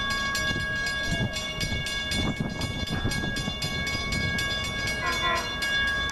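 Long Island Rail Road train passing with a low rumble, while a grade-crossing bell rings in rapid, regular strikes over steady ringing tones.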